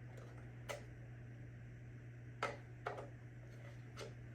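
Four light plastic clicks and taps as the Roomba i3's dust bin and filter are handled, over a steady low hum.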